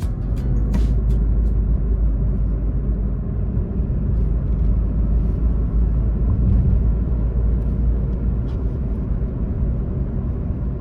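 Steady low rumble of a 2012 Mini Cooper on the move, its engine and road noise running evenly throughout.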